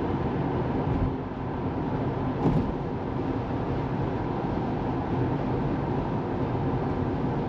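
Steady road and tyre noise of a Tesla Model 3 driving, with one brief bump about two and a half seconds in.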